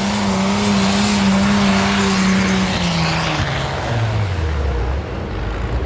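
White farm tractor's engine running flat out at steady high revs while pulling the sled, then throttled back about three seconds in, its pitch falling in steps as the pull ends.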